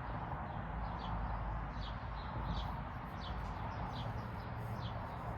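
Songbirds chirping: short falling notes repeated a couple of times a second, over a steady outdoor background rush.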